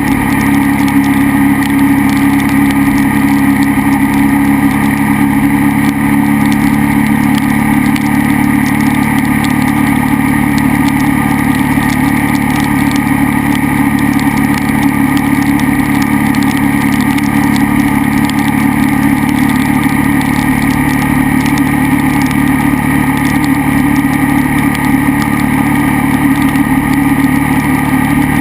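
KTM 990 SMR's V-twin engine running at a steady speed while the bike is ridden, its note holding even with no clear revving, over a steady rush of wind and road noise.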